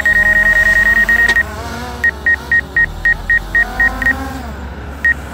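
Drone remote controller or app sounding a high electronic warning beep, first in a very fast string, then after a short pause as separate beeps about four a second, with one last beep near the end. A lower steady hum runs underneath.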